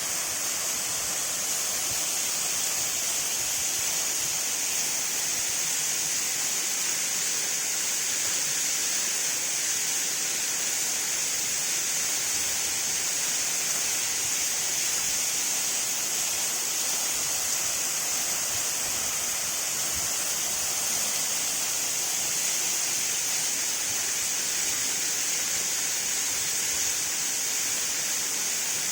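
Waterfall cascading, a steady, unbroken hiss of falling water that is strongest in its high, bright part.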